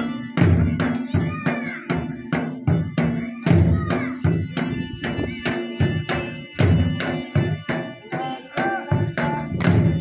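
Attan dance music: dhol drums beaten in a fast, even rhythm of about four strokes a second, under a reed pipe (surna) playing held, wavering notes.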